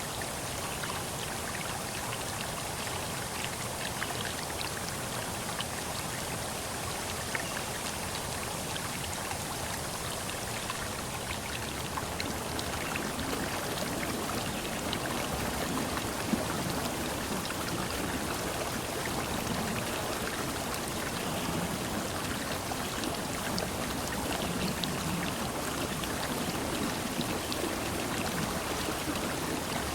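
Steady running water with fine dripping and pattering, growing a little fuller with low gurgles about halfway through.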